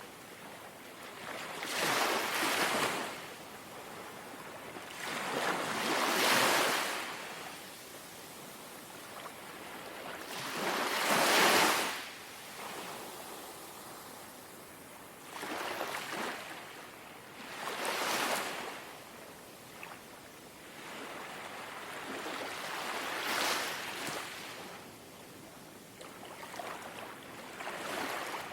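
Small, gentle sea waves washing in and lapping on the shore, each one a rushing swell that rises and fades, arriving every two to five seconds; the strongest comes about eleven seconds in.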